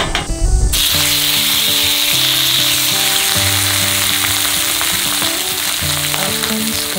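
Thin slices of wagyu beef sizzling loudly as they hit hot metal over a wood fire. The sizzle starts suddenly under a second in, then holds steady.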